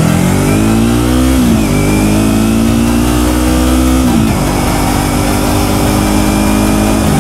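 Yamaha MT-03's parallel-twin engine accelerating with rising pitch, shifting up about a second and a half in and again about four seconds in, then running steadily, with wind noise over it.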